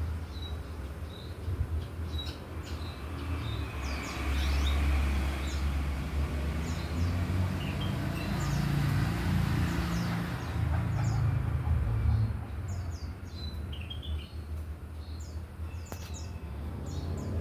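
Male rengganis songbird calling actively in many short, high chirps and whistles, over a steady low rumble.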